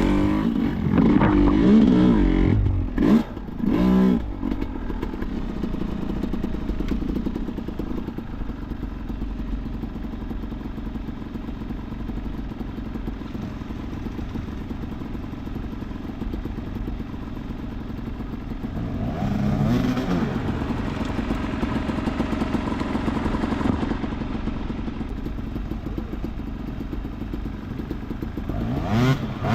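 Enduro dirt bike engine blipped up and down several times in quick succession, then running steadily at low revs. The revs rise again about two-thirds of the way through and once more near the end.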